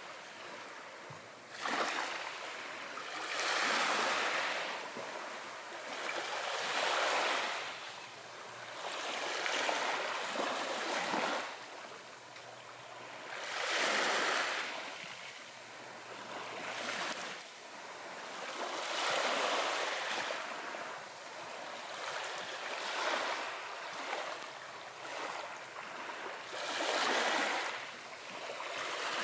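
Small waves washing in and out in slow swells of surf, one every two to four seconds.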